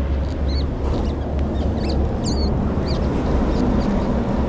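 Birds calling in short, high, arched chirps, several times over a few seconds, over a steady low rumble.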